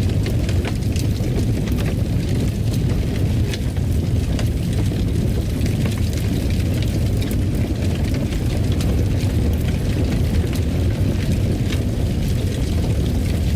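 Wood fire burning in a fireplace: a steady low rumble with scattered sharp crackles.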